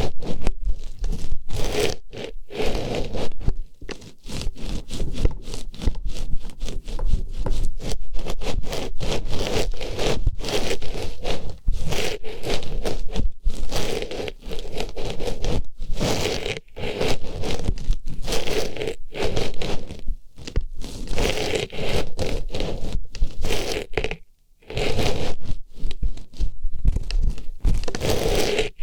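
An artificial rose flower pushed into and rubbed around an ear as ASMR ear-cleaning sounds: close, continuous scratchy rustling and scraping, with a short silent break about 24 seconds in.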